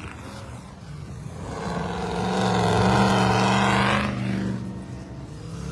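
Off-road race vehicle's engine revving hard and held at a steady high pitch, growing loud about two seconds in and fading after about four seconds.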